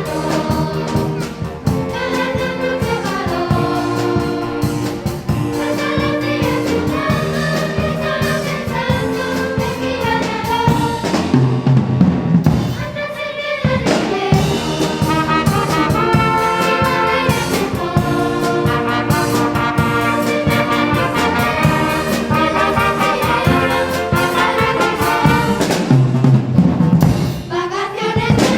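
Music performed by an ensemble, with brass instruments prominent, playing held notes in phrases that repeat.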